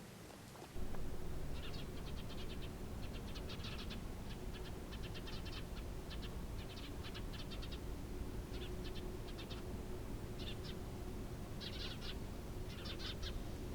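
Small birds chirping in quick, rapid trills in short bursts, over a low steady rumble of outdoor background noise, starting about a second in.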